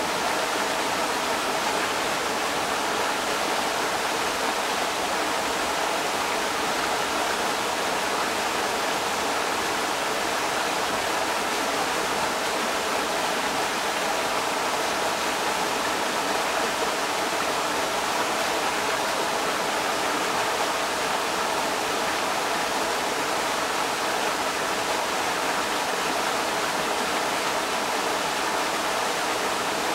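Creek water rushing over rocks: a steady, unbroken wash of water noise.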